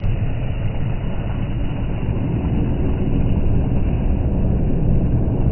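Jet airliner's engines making a steady low rumble as it comes in to land.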